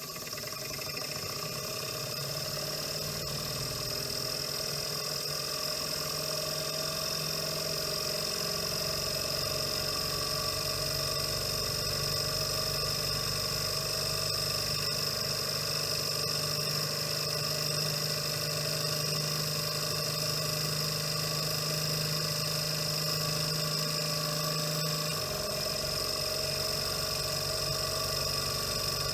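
Miniature beta-type Stirling engine (PM Research Solar Engine #4) running steadily, a mechanical whirring hum with a high whine. The lowest part of the hum drops out about 25 seconds in.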